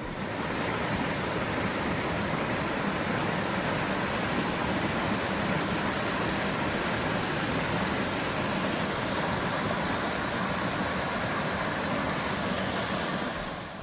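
Steady rush of a small waterfall pouring over rocks in a creek, fading in at the start and out near the end.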